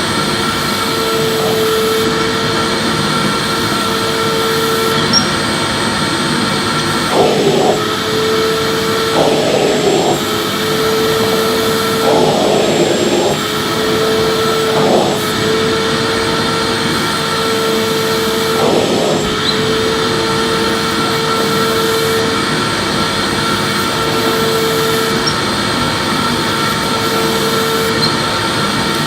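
Electric vacuum cleaner running steadily with a constant whine, with several short rougher rushes in the middle stretch as the nozzle is swept back and forth over a surface.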